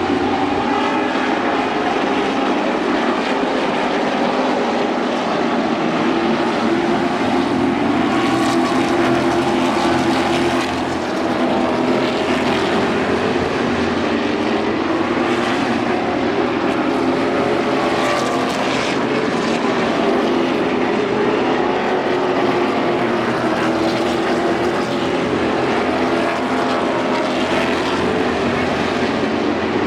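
Several stock car engines running together in a steady, wavering drone as the cars circle the track.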